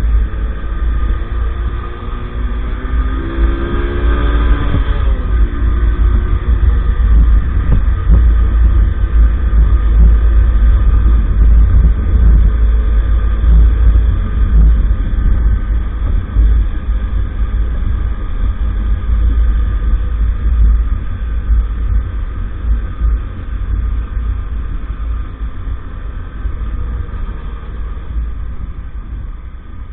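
Wind buffeting the microphone while riding an EAYS Pro 50cc moped, with a steady low rumble throughout. A few seconds in, the small engine's pitch rises as it revs up.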